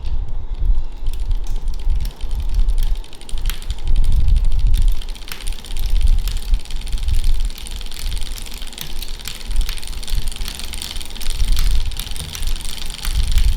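Brompton folding bicycle's drivetrain clicking over and over in its lowest cassette gear, the click that shows up only in that gear, over a low pulsing rumble of the ride.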